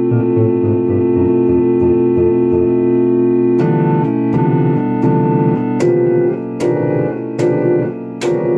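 Salvaged home electronic organ playing sustained chords over a pulsing bass line. About halfway in, sharp clicks begin at each chord change, roughly every 0.8 s.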